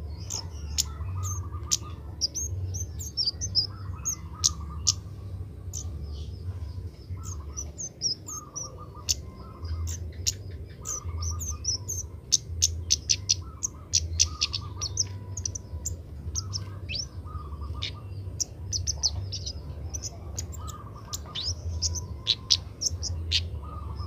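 Kemade birds calling: many quick, sharp high chirps and short notes over a lower warbled phrase that repeats every second or two. A low hum runs underneath.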